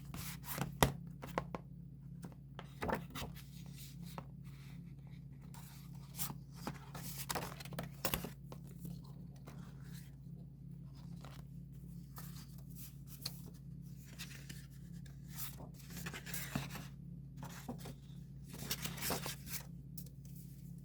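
A K-pop album's packaging being handled and opened: irregular tearing, rustling and scraping of wrap, paper and card, with a sharp click about a second in and light knocks, over a steady low hum.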